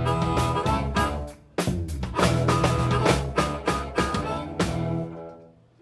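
Live band with guitar and drum kit playing the close of a song: a brief stop about a second and a half in, then a last run of drum hits and a final chord that dies away near the end.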